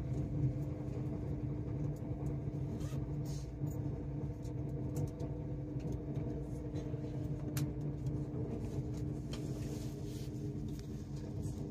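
Steady in-cabin running noise of a Great Western Railway Class 800 train on the move: a low rumble of wheels on rail under a steady hum, with an occasional faint click.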